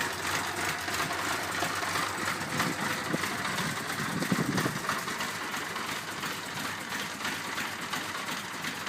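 1978 Honda CB550's air-cooled inline-four idling unevenly and sputtering as it starts to die after a choked cold start, a sign of a running fault the owner can't yet place.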